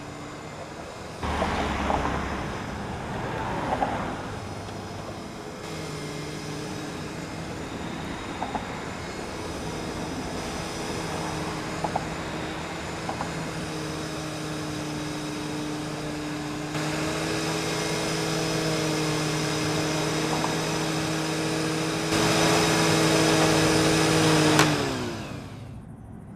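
Vacuum cleaner motor running with a steady whine over a loud rushing hiss. Near the end it is switched off, and its pitch falls as the motor winds down.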